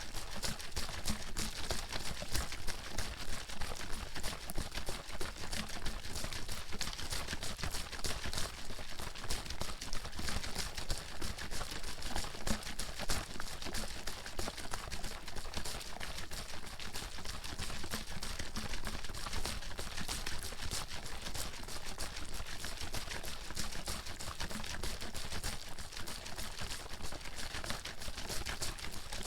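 Water bottle being shaken continuously, the water inside sloshing and splashing in a fast, unbroken rattle of small knocks.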